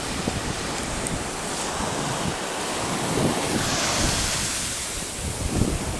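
Ocean surf breaking and washing up the shore, with wind buffeting the phone's microphone. The rush of water swells to its loudest about four seconds in.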